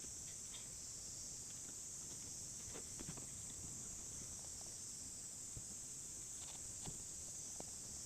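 A steady, high insect chorus, like crickets chirring, with scattered faint clicks and crackles.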